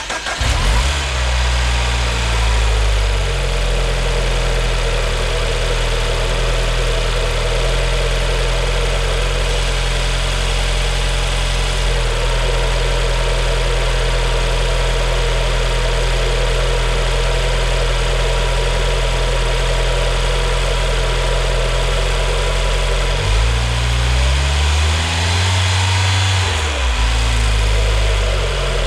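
2013 MINI John Cooper Works Clubman's turbocharged 1.6-litre four-cylinder starting from cold. It catches right at the start, flares briefly, and settles within about three seconds into a steady fast cold idle. About 23 seconds in, the engine speed dips, swells and falls back again over a few seconds before it steadies.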